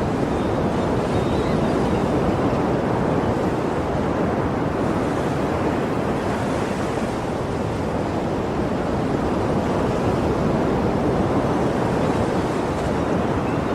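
Sea waves washing in a continuous rush, with gentle swells rather than distinct breakers.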